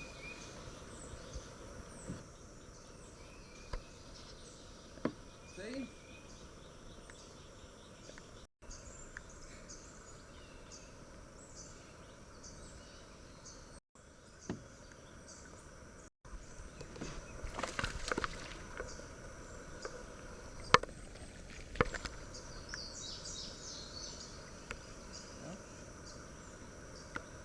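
Creekside ambience: birds chirping in short repeated calls over a steady high insect drone. Scattered knocks and clicks come in the second half, one of them sharp.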